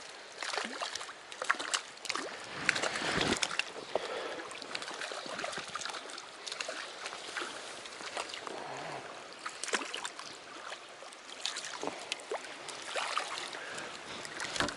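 Shallow, fast mountain stream running over stones, with irregular close splashes and sloshes of water, most of them about two to three and a half seconds in.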